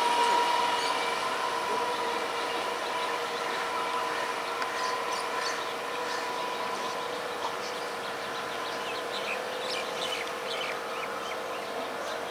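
Electric multiple unit local train running along the line, a steady electric whine made of several held tones over a running hiss, slowly getting quieter.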